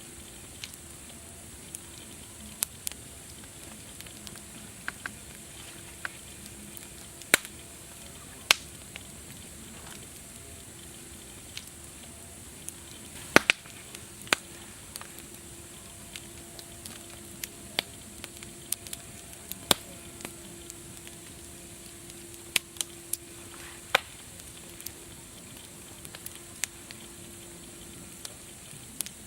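Wood fire crackling: a steady hiss with irregular sharp pops and snaps, a few every several seconds.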